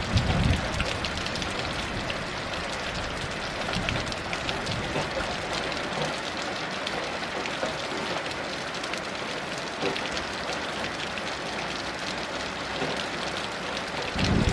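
Heavy rain falling steadily, a dense hiss of drops with sharper individual drop impacts. Distant thunder rumbles low at the very start and again just before the end.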